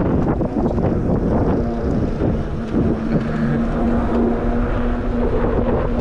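Wind buffeting the action-camera microphone while riding an electric bike. A steady hum joins in about a second and a half in and holds until near the end.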